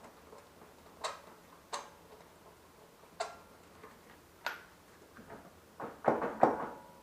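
Sharp metal clicks and clinks from lug bolts and tools being handled while a wheel is refitted: four single clicks spaced a second or so apart, then a louder run of knocks and clanks about six seconds in.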